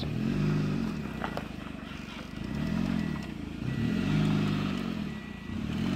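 Small hatchback car's petrol engine revved up and let back down in about four uneven spurts as a learner driver creeps the car forward.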